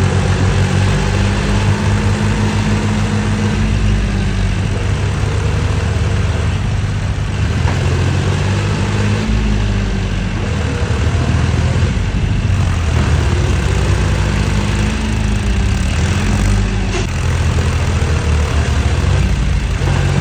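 John Deere 4WD tractor's diesel engine working hard while the tractor is stuck in mud, its pitch rising and falling several times as the throttle is opened and eased off.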